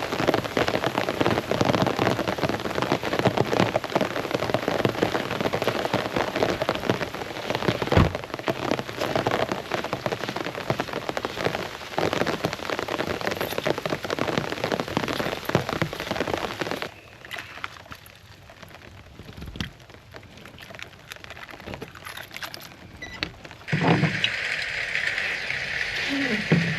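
Heavy rain pouring steadily. About two-thirds of the way through it suddenly gets much quieter, and near the end a different, higher sound comes in.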